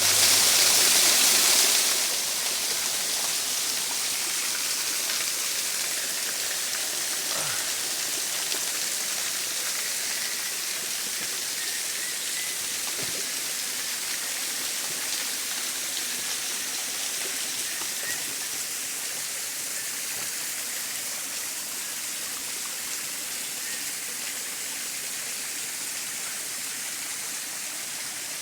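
Steady rush of running water, louder for the first two seconds and then slowly easing off.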